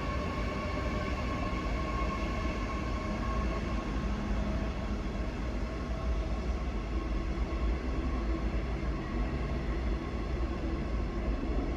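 A train running through the station: a steady low rumble with a few high, steady tones over it that fade about halfway through.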